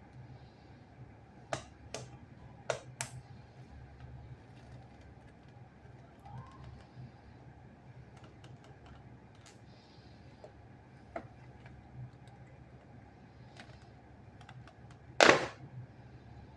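Sparse clicks and taps of a doll's cardboard-and-plastic packaging being handled and opened, with a louder crackle near the end.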